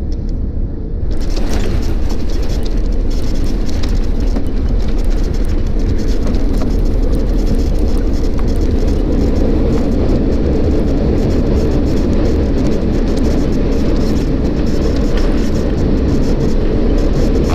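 Cabin noise of a jet airliner landing: about a second in, the sound jumps suddenly to a loud, steady rumble and rush, typical of touchdown and the roll-out on the runway with reverse thrust.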